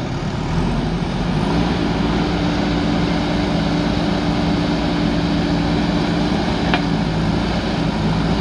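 JCB backhoe loader's diesel engine running under load, its note building a little over a second in and then holding steady. A brief click near the end.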